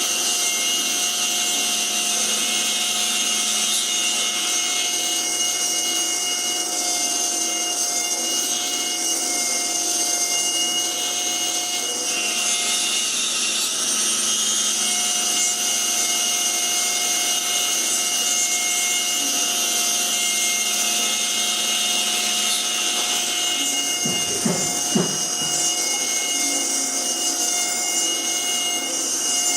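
CNC router spindle running steadily with several high tones as its bit cuts wood, with a few brief knocks about twenty-five seconds in.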